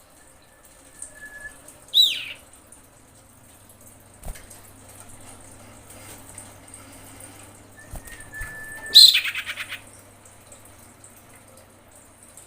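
Female common iora calling twice. Each call is a long, steady whistled note followed by a loud falling note, and the second falls into a quick rattle. This is the iora's call to attract a male.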